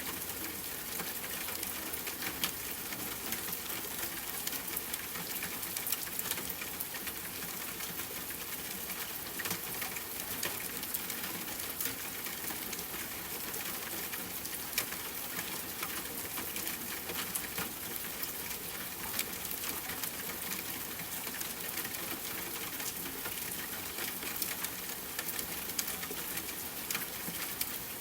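Steady rainfall hiss mixed with a wood fire crackling, its sharp pops coming at irregular moments.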